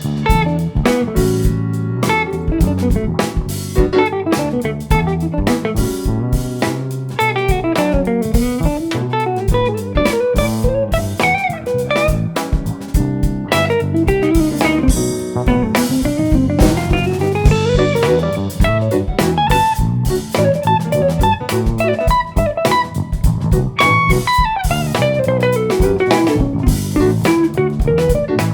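Live jazz-fusion band playing: electric guitar lines over drum kit and bass, with fast runs that sweep down and back up in pitch several times.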